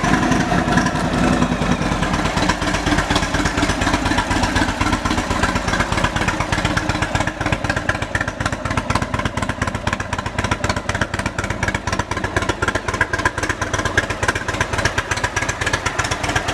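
Indian Chieftain's 111-cubic-inch Thunder Stroke air-cooled V-twin, fitted with Stage 1 and Stage 2 cams and an upgraded aftermarket exhaust, idling steadily just after start-up with a rapid, even exhaust pulse.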